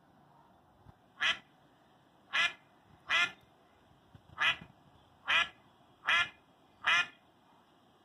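A duck quacking: seven short single quacks, roughly a second apart.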